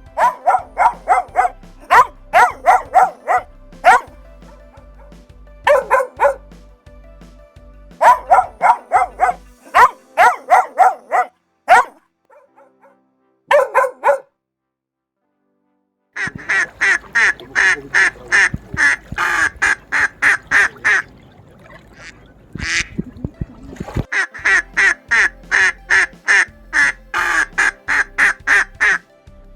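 Ducks quacking in quick runs of short, loud calls, several a second, broken by a brief silence midway.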